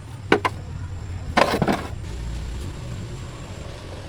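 A steady low rumble, with two quick sharp knocks and then, about a second later, a short clatter of louder knocks.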